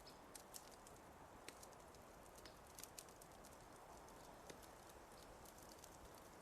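Fire crackling faintly: irregular sharp pops and snaps, a few a second at most, over a low steady hiss.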